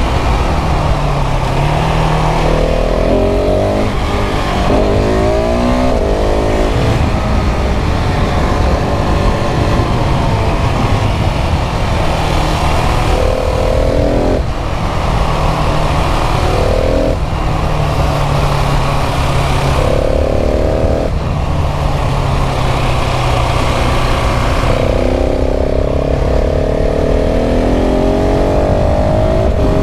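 KTM 690 SMC R's single-cylinder engine pulling hard through the gears, its pitch rising and then dropping sharply several times as gears change, over steady wind rush.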